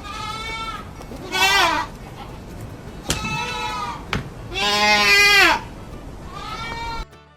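Goat bleating several times: a series of wavering calls, two of them loud and long. Two short clicks come between them.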